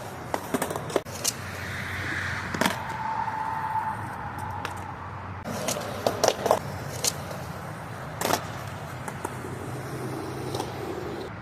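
Skateboard rolling on pavement, with a run of sharp wooden clacks from tail pops, trucks hitting a ledge and landings as a trick is tried at a ledge. A smooth scraping tone partway through fits the trucks grinding along the ledge.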